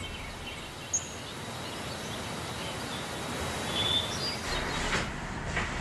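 Outdoor ambience: a steady background hiss with a few short, high bird chirps, one about a second in and a couple around four seconds in.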